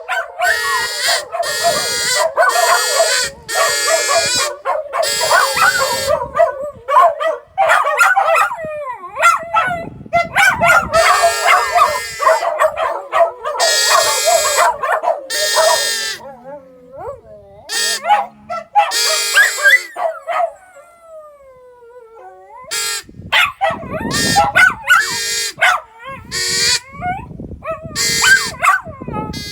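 Several dogs howling together in overlapping, wavering calls, with yips and barks breaking in. After about 20 seconds the howling thins out, with one long falling howl and scattered short yips.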